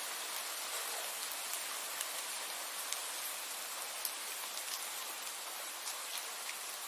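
Steady rainfall: an even hiss of rain with sharp individual drops ticking on a surface every second or so.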